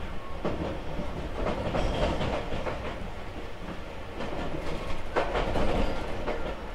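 Tobu 6050 series electric train running at speed, heard from inside the passenger car: a steady low rumble with clusters of wheel clatter over the rails, the loudest burst of clacks about five and a half seconds in.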